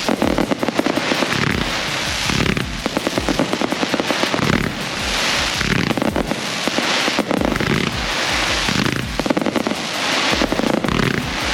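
Consumer fireworks cakes and shells firing in a dense, unbroken barrage: rapid bangs and low thumps, with waves of crackling every second or two.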